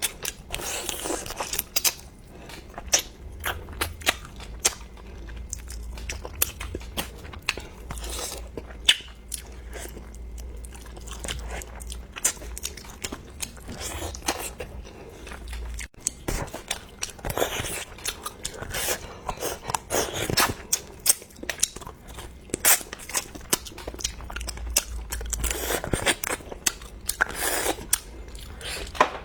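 A person chewing and biting close to the microphone, with many short crunches and wet mouth clicks, as of crunching through a duck head.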